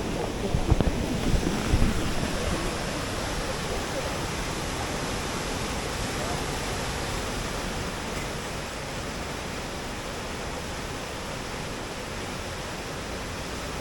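Ryuzu Falls rushing steadily, the constant roar of water cascading over rock. A few low rumbles hit the microphone in the first two seconds.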